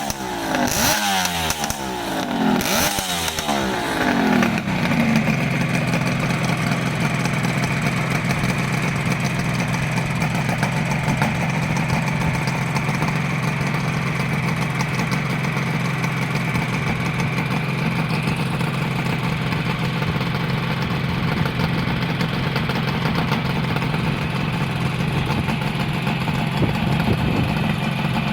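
Kawasaki 250SS (S1) air-cooled two-stroke triple running through aftermarket expansion-chamber exhausts with steel silencers. It is blipped a couple of times in the first few seconds, the revs falling away each time, then settles into a steady idle.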